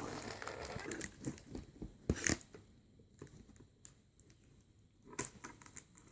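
Toy packaging and plastic playset parts being handled: rustling for the first second or so, then scattered sharp clicks and taps, a pair about two seconds in and a quick cluster near the end.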